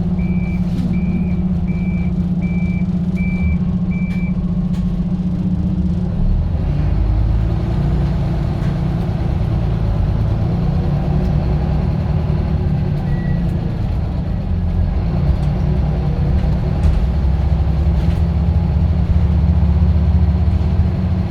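Scania bus's diesel engine running, with a reversing beeper sounding about every two-thirds of a second for the first four seconds and then stopping; the engine note shifts and wavers from about six seconds in.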